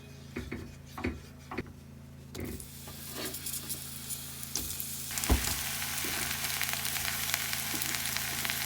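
Food frying in a hot pan. A few light knocks come first, then a sizzle starts about two seconds in and grows louder from about halfway.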